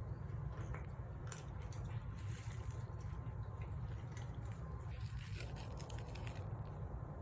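A cat chewing and smacking at its food in small bursts of wet clicks and crunches, over a steady low hum.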